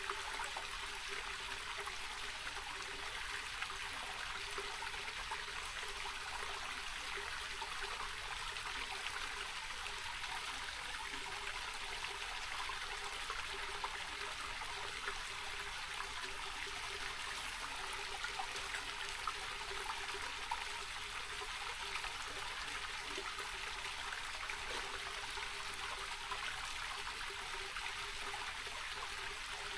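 Small rocky mountain creek running low over stones: a steady, even rush and trickle of water.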